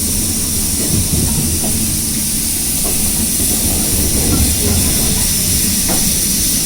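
Heritage railway train running: a steady low rumble with a constant high hiss and a few faint clicks.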